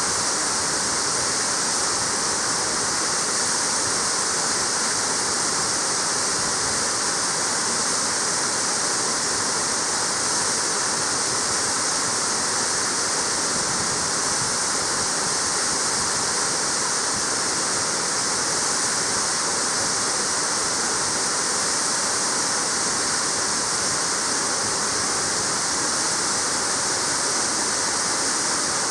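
Waterfall: water falling and splashing in a steady, loud rush with no pauses.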